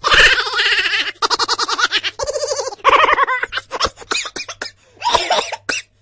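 A baby laughing and giggling, starting abruptly. The laughter comes in quick runs of short high-pitched pulses, then breaks into shorter separate bursts in the second half.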